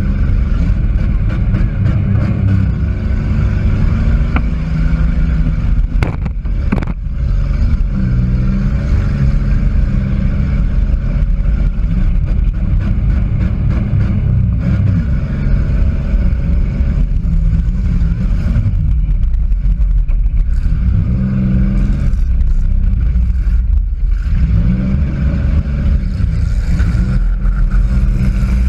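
Demolition derby car's engine, heard from inside the cabin, revving up and down repeatedly under hard throttle. A couple of sharp knocks of metal impact come about six to seven seconds in.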